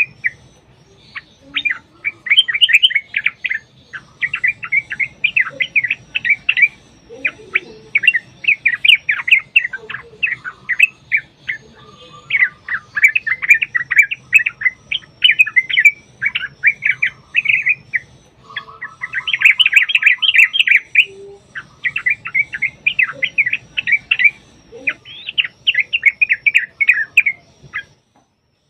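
Yellow-vented bulbuls (trucukan) calling in long, rapid chattering phrases, one after another with short breaks, the excited 'fighting' song used to provoke other bulbuls to answer. The calling stops just before the end.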